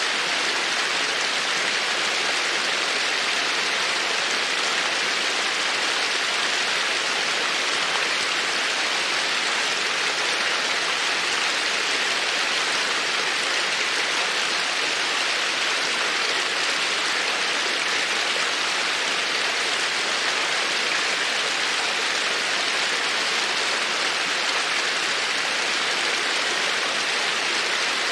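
Creek water babbling over stones in a steady, even rush.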